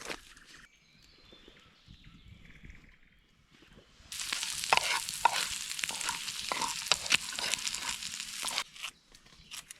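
Food sizzling in a hot pan over a campfire: a loud, even hiss with scattered pops starts suddenly about four seconds in and cuts off after about four and a half seconds.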